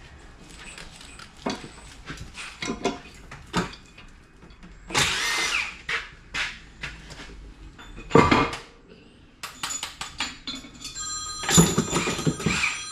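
Metal engine parts and hand tools clanking and scraping in irregular knocks, with a sharp hit about eight seconds in. A phone starts ringing with a steady electronic ringtone in the last couple of seconds.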